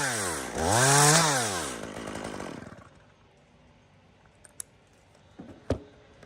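Two-stroke chainsaw blipped twice, its pitch rising and falling each time, then dropping away and going quiet about three seconds in. A few faint clicks follow.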